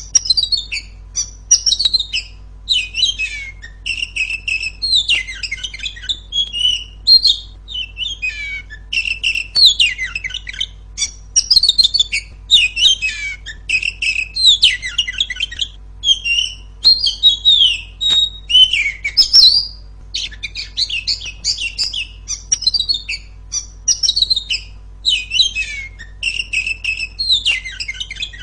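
Oriental magpie-robin (kacer) singing a loud, fast, varied song of short whistles, trills and chattering phrases, coming in quick bursts with only brief gaps.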